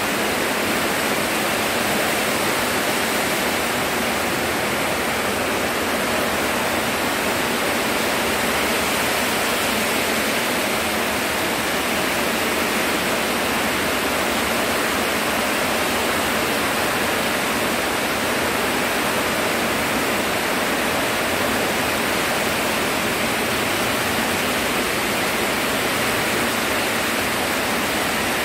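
Very heavy rain pouring down, a steady, unbroken rush of noise.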